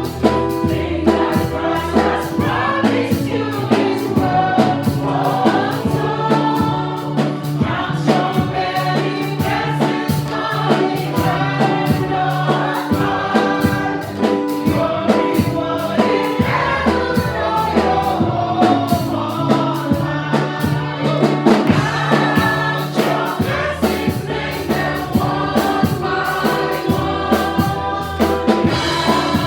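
Congregational gospel praise singing with a choir over a band with bass, keyboard and drums, a steady beat running through.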